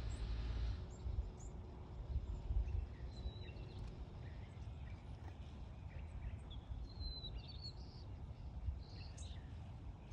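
Birds in a tree giving short, scattered chirps and calls, a little louder about seven and nine seconds in, over a steady low rumble.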